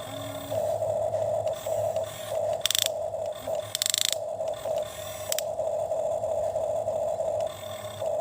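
Small electric motor of a toy excavator whining steadily in short runs, with two brief scraping rattles about three and four seconds in.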